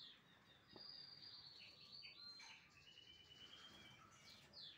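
Faint high bird calls: a few quick downward chirps and a long, thin twittering note that steps down in pitch halfway through, typical of a small songbird.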